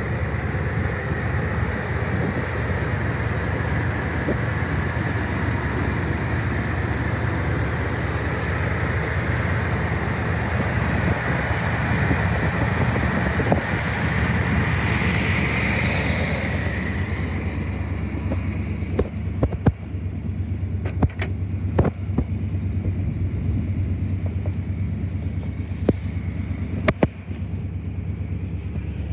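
1970 Plymouth Superbird's 440 Six Barrel V8, with three two-barrel carburettors, idling steadily just after a cold start. Wind noise on the microphone covers the first half, and several sharp knocks come in the second half.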